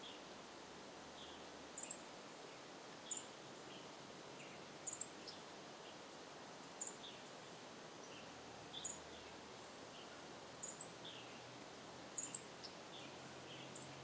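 Madagascar red fody giving short, very high chirps, single or in quick pairs, about every one and a half to two seconds, over a steady faint outdoor hiss.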